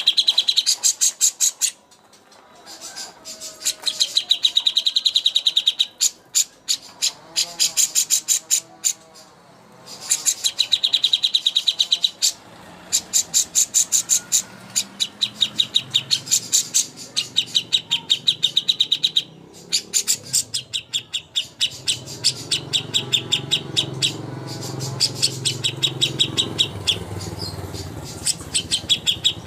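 A songbird giving long runs of rapid, high-pitched chattering trills, many notes a second, repeated with short breaks: the long 'nyerecet' chatter used in masteran for contest birds. A low background noise comes up beneath it after about two-thirds of the way in.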